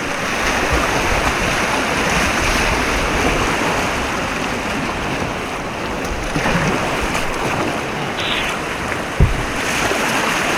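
White water rushing steadily through an artificial rapids course, with a single short thump about nine seconds in.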